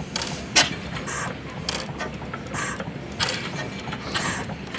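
1909 Deutz-Otto antique gas engine turning over slowly, with sharp mechanical clicks repeating about twice a second over a low running hum.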